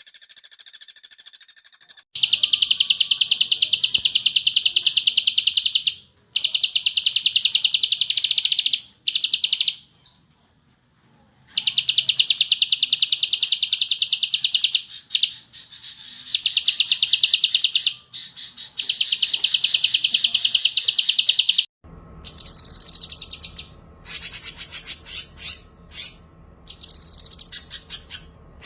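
Recorded songbird song: long, very fast, buzzy trills in repeated bursts of a few seconds with short breaks. For the last several seconds they give way to separate, varied calls that fall in pitch, over a faint low steady hum.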